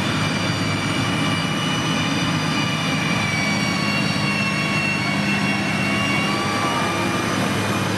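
Motor grader's diesel engine running steadily, with a high whine riding over the engine note.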